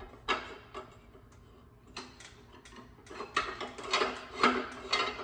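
Irregular metallic clicks and clanks from a little press brake bending 3/16-inch steel plate, some ringing briefly. They come closer together and louder in the second half.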